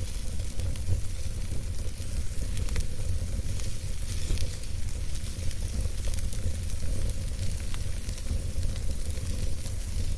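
Wood campfire burning, crackling with irregular sharp snaps and pops over a steady low rumble of the flames.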